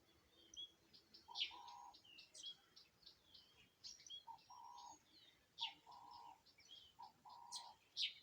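Several wild birds calling at once, faint: high chirps and twitters throughout, and a lower two-part call, a short note then a longer one, repeated four times.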